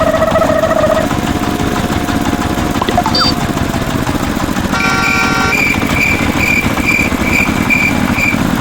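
A steady engine-like motor rumble, joined about five seconds in by a quick series of short, high beeps.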